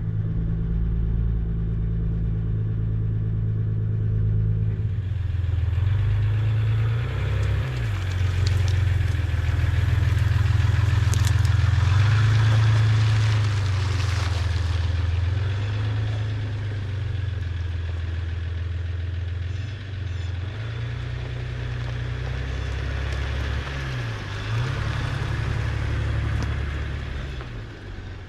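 Pickup truck engine running just after starting; after about five seconds road and tyre noise join it as the truck drives off, and the engine note shifts twice along the way.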